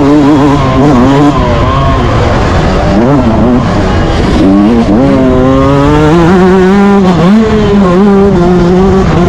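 Yamaha YZ125 two-stroke motocross engine revving hard under race load. Its pitch climbs and drops again and again with throttle and gear changes, with a long climb about halfway through and a sharp dip shortly after.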